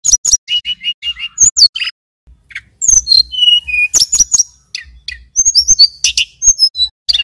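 Male tledekan gunung (sulingan gunung) singing: rapid bursts of sharp, high chirps, short whistled notes and quick trills, with a short pause about two seconds in.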